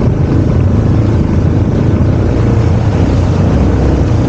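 Yamaha TW200's single-cylinder four-stroke engine running steadily under load as the bike rides through mud.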